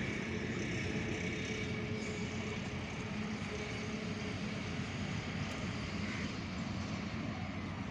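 Steady rumble of a distant approaching passenger train running along the line, with a faint high tone, likely the tail of its horn, fading out about two seconds in.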